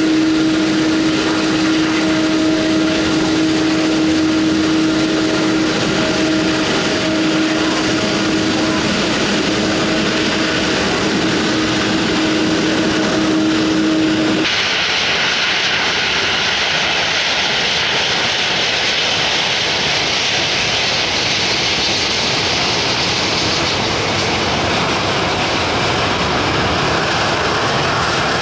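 Jet airliner engines running at close range: a steady hum over loud rushing noise. About halfway through, the sound changes abruptly to a louder high-pitched hiss, and a faint whine rises near the end.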